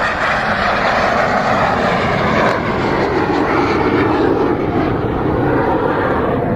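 Jet engines of Red Arrows BAE Hawk T1 trainers passing low and loud in a display pass. Their noise sweeps steadily down in pitch as they go by.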